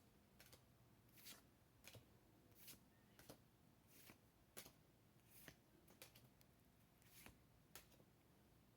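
Faint rustles of Pokémon trading cards being slid one at a time through the hand, about a dozen short swishes at roughly one every half second to second, stopping near the end.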